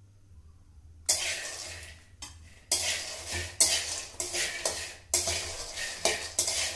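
Repeated scraping and rustling noises, like something being stirred or scraped in a dish, starting about a second in. Each one starts suddenly and fades within a fraction of a second, and they come every half second to a second.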